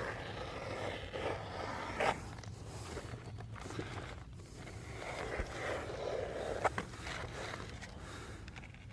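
Scraping and rustling of roofing work on asphalt shingles, with a few sharp taps or clicks.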